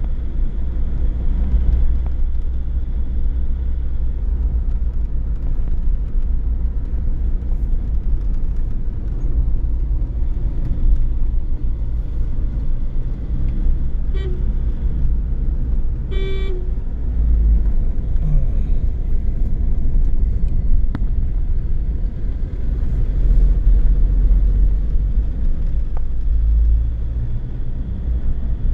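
Steady low road rumble of a car being driven, with a short horn toot about sixteen seconds in.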